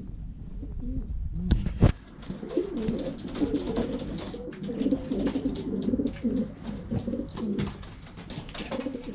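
Pigeons cooing in a loft, with a couple of loud sharp knocks about a second and a half in and lighter clicks and taps through the rest.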